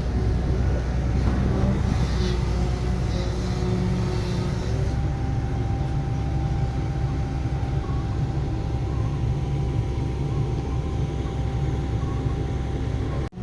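Heavy diesel construction machinery running steadily: a deep engine drone with a faint steady whine above it. The sound drops out for an instant near the end.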